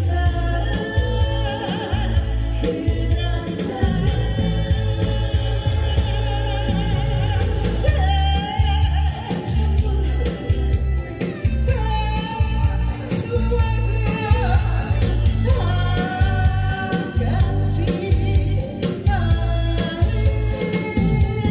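A solo singer performing a song over instrumental accompaniment with a heavy bass beat, holding long notes with vibrato.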